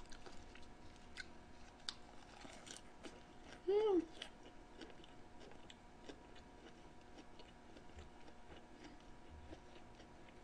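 A person chewing grilled pig's trotters close to the microphone: faint, scattered small wet clicks and smacks. About four seconds in there is one short hummed "mm" that rises and falls in pitch.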